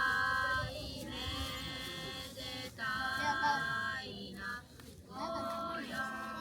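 A high voice singing a slow traditional song in long held notes, each about a second long, with short breaks between phrases.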